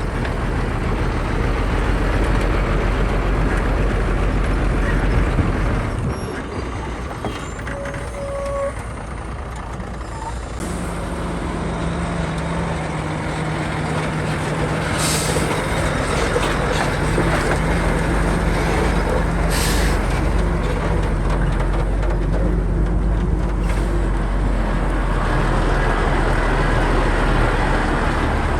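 Heavy diesel earthmoving machinery running steadily, with the engine note shifting about 6 and 10 seconds in. Two short air hisses, about 15 and 19 seconds in, typical of a dump truck's air brakes.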